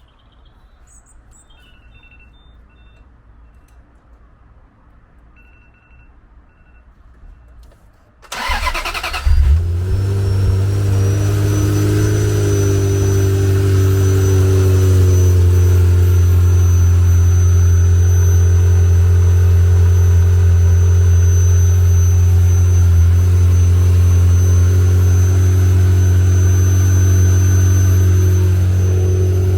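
Ferrari F355's 3.5-litre V8 cold-started: a few faint beeps, then about eight seconds in the starter cranks briefly and the engine catches with a rev. It then settles into a steady idle, with a thin high whine over it.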